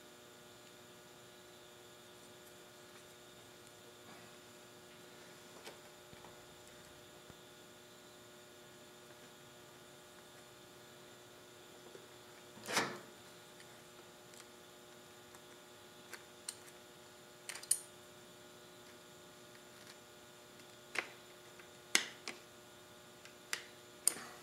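Faint steady electrical hum. Over it, a handful of sharp clicks and knocks from mower parts being handled and fitted by hand; the loudest comes about halfway, and several more follow near the end.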